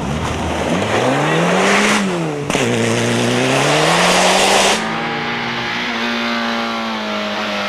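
Rally car engine accelerating hard: the revs climb, drop at a gear change about two seconds in, climb again, then hold steady from about five seconds in. A loud rushing noise of tyres on the road runs under the acceleration and stops abruptly at that point.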